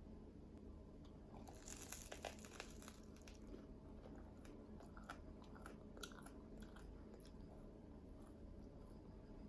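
Faint crunching of a person biting into and chewing a charred, toasted bagel. A dense run of crunches comes about one and a half seconds in, followed by scattered crunches.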